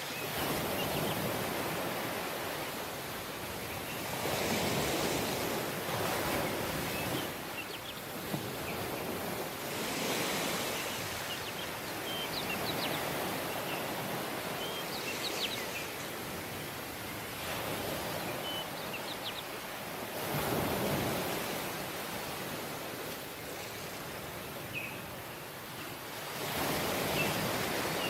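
Waves breaking and washing up on a beach, the surf swelling every few seconds, with a few faint high chirps now and then.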